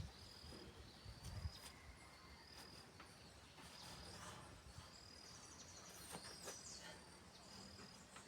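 Faint outdoor quiet with an insect chirping, a short high chirp about once a second, and a few faint clicks.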